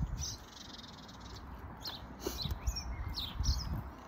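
Close chewing and mouth sounds of someone eating, heard as soft, uneven low thuds, while small birds chirp several times in the background.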